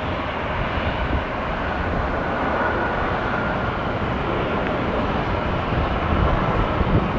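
Jet engines of an arriving Airbus A350-900 (Rolls-Royce Trent XWB) running. It is a steady, even roar, heaviest in the low end, with faint whining tones on top.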